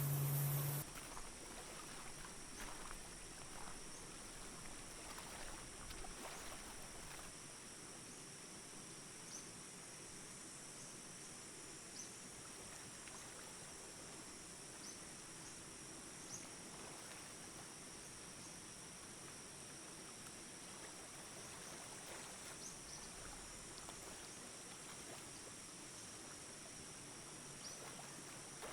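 Night insect chorus: a steady high-pitched drone of crickets or similar insects, with faint chirps scattered through it. A loud low tone stops under a second in.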